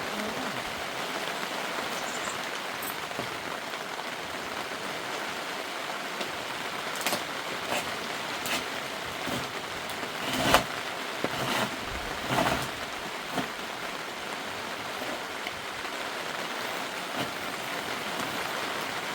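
Steady rain falling, an even hiss throughout. Several short knocks come near the middle, the loudest about halfway through.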